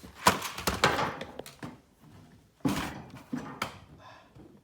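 Handling noise: a run of knocks and clatter in two bursts, with no motor running.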